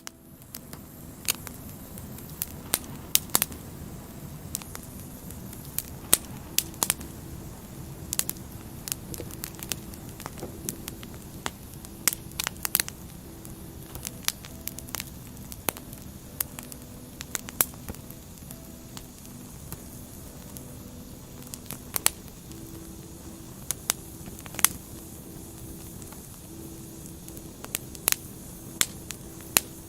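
Wood fire crackling: a steady hiss of burning logs with frequent irregular sharp pops and snaps, a few of them much louder than the rest.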